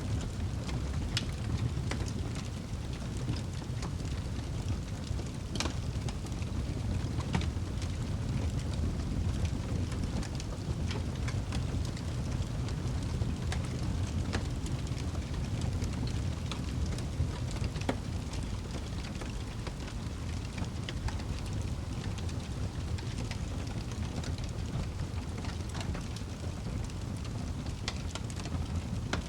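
Wood fire burning in a fireplace: a steady low rumble of the flames with scattered sharp crackles and pops from the burning logs, a few each second.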